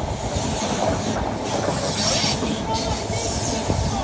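LNER HST (InterCity 125) running through the station at speed without stopping: a steady rush of wheel and rail noise as its coaches go by close to the platform.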